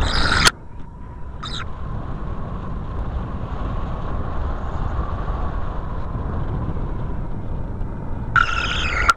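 Wind rushing over a paraglider's sail and lines on a winch tow: a steady low rumble of wind, a faint thin whistle held for several seconds, and two short screeching bursts, one right at the start and one near the end.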